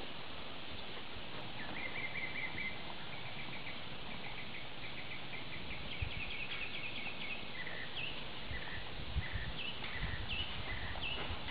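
Songbirds singing: a rapid series of short chirps begins about a second and a half in, followed by short falling whistled notes near the end, over a steady background hiss, with a few faint low knocks.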